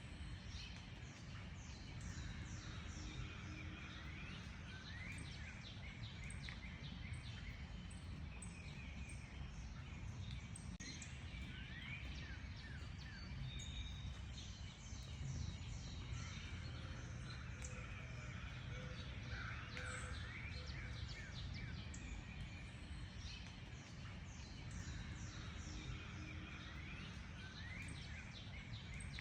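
Several wild birds singing and chirping together in a dense chorus of short, quick, high notes, over a steady low rumble.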